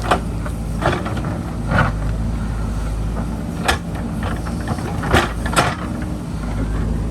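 JCB backhoe loader's diesel engine running steadily while the machine digs, with about six sharp knocks and clanks of the bucket against rock and earth scattered through it.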